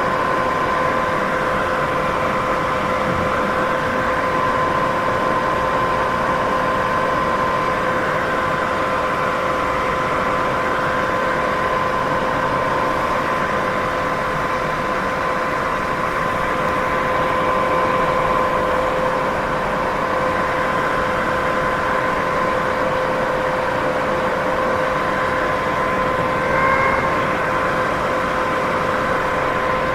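Steady sleep-aid white noise: an even hiss with a constant hum running through it, swelling slightly for a moment near the end.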